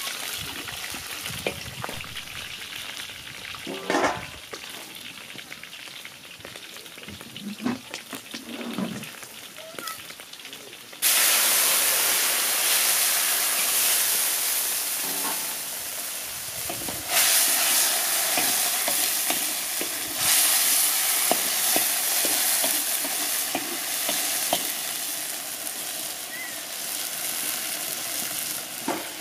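Sliced onions frying in a metal wok, a wooden spatula scraping and knocking against the pan. About a third of the way through, liquid hits the hot wok and a loud steaming sizzle starts suddenly, surging twice more and then slowly fading.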